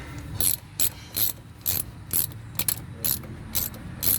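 Ratchet wrench clicking in short strokes, a little over two a second, as a bolt is tightened into a threaded hole in the tractor's engine block.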